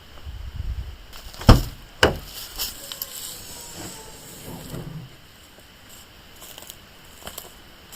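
Two sharp knocks about half a second apart, among quieter handling and rustling sounds.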